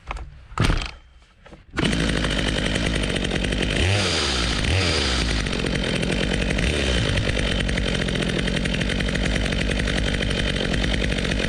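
Brand-new Stihl chainsaw starting about two seconds in, after a brief sharp sound, then running loud and steady, with a few rises and falls in engine pitch as the throttle is worked.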